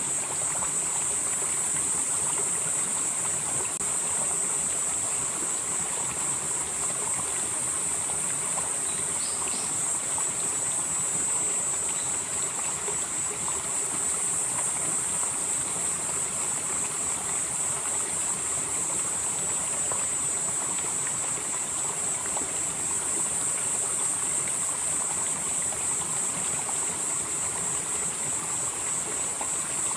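A valley stream flowing steadily under a high, steady drone of insects. A higher layer of the insect sound swells and fades every few seconds.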